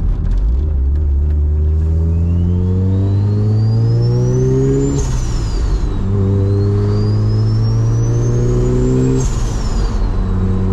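Turbocharged Chevrolet Silverado pulling away under acceleration through two upshifts: the engine note climbs, drops at a shift about 5 s in, climbs again, drops at a second shift about 9 s in, then holds steady. A high turbo whistle rises with the revs and falls away after each shift.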